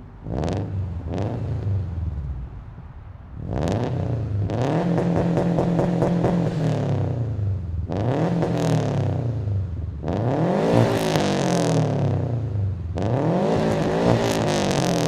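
Subaru WRX STI's turbocharged flat-four, fitted with unequal-length headers and an aftermarket exhaust, revved while parked and warmed up. Two quick blips, then a long rev held at one steady pitch with rapid crackling typical of the 2-step launch limiter, then several more revs that climb high and drop back.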